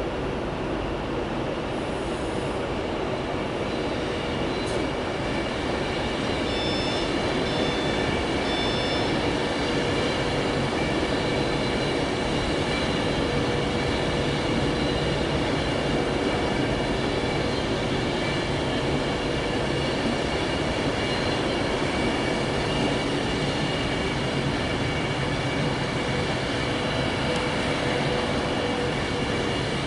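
Electric passenger train moving along the platform: a continuous rail rumble with steady high-pitched whining tones over it, growing slightly louder a few seconds in.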